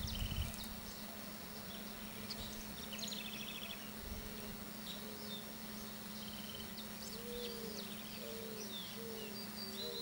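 Chorus of frogs calling in the breeding season, a mating and courtship chorus. Many short high chirps and quick pulsed trills overlap throughout, and from about halfway a lower call repeats again and again, over a steady low hum.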